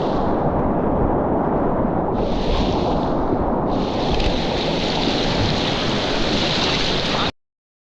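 Steady rush of river water mixed with wind noise on the microphone. It cuts off abruptly to dead silence about seven seconds in.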